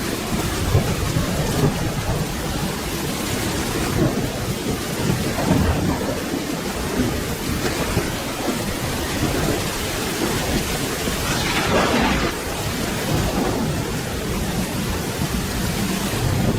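Steady rainfall with thunder rumbling low underneath, and a brief louder rush of rain noise about two-thirds of the way in.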